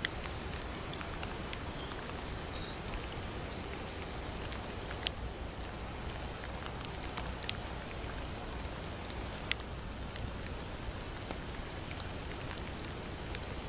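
Steady rain falling on a swollen creek's surface and the grass along its banks, with a steady low rumble underneath. A few sharp ticks stand out, loudest about five and nine and a half seconds in.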